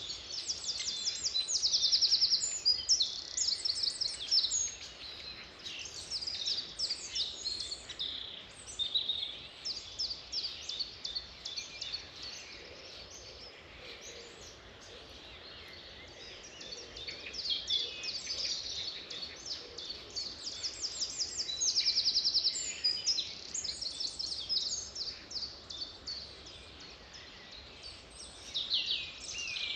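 Birds singing and chirping, with rapid high trills that peak about two seconds in and again a little past twenty seconds, over a faint background hiss.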